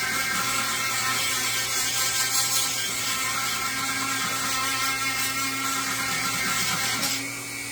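A handheld electric power tool running steadily with a whine as it takes wood down to lower the depth of a carved area; the sound gets quieter about seven seconds in.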